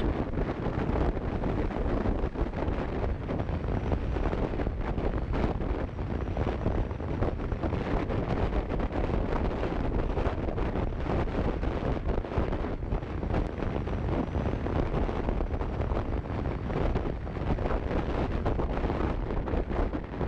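Wind rushing and buffeting over the camera microphone on a moving motorcycle, with the bike's engine and road noise blended underneath; steady throughout.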